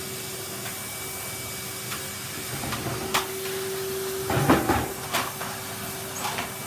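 Vacuum cleaner running steadily with a hum and hiss, with a few knocks and clatters, the loudest about four and a half seconds in.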